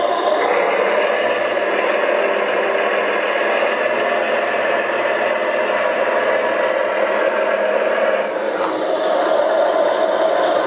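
Radio-controlled model construction machine running, its electric drive whirring steadily with a rattle of gears and tracks; the pitch shifts briefly about eight seconds in.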